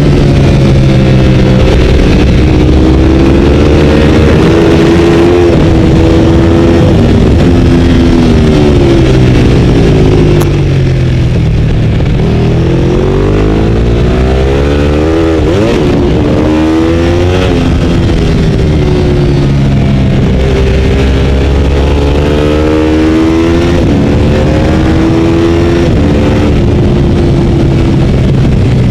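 Ducati 848's V-twin engine at racing pace, the revs repeatedly climbing and dropping away as it goes up and down through the gears.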